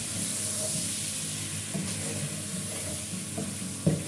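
Chicken pieces sizzling in hot oil in a granite-coated frying pan while a wooden spatula stirs and turns them, scraping over the pan. There is a sharper knock of the spatula against the pan just before the end.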